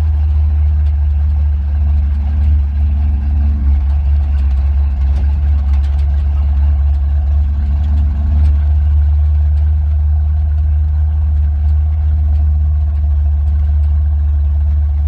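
1967 Chevy C20 pickup's engine and exhaust running with a steady low drone while driving, with wind on the microphone.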